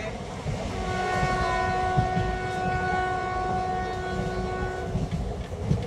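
A train horn sounds one long, steady blast of about four seconds, over the low rumble of the moving train.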